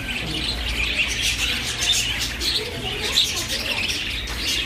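Many caged birds chirping at once, a dense, unbroken chatter of short high calls over a low steady hum.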